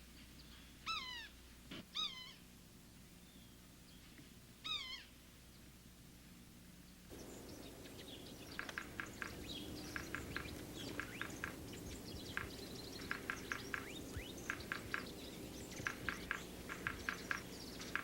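Yellow-bellied sapsucker giving its cat-like mewing call three times, each call falling in pitch. From about seven seconds in comes a busy run of short, high, rapid bird notes in clusters.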